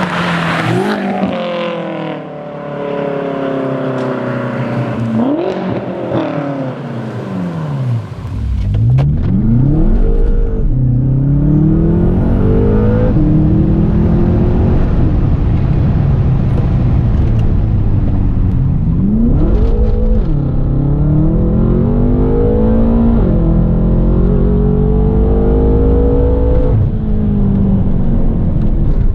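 BMW F10 M5's 4.4-litre twin-turbo V8 through a muffler bypass exhaust with race resonators, being driven with its revs climbing and dropping again and again. In the first seconds the pitch mostly falls. From about eight seconds in a deep low rumble joins it, and the engine pulls up in pitch several times, each rise ending in a sharp drop.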